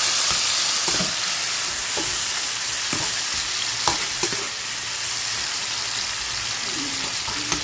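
Chopped tomatoes and garlic sizzling in hot oil in a frying pan, with a utensil stirring and scraping the pan and a few sharp taps against it in the first half.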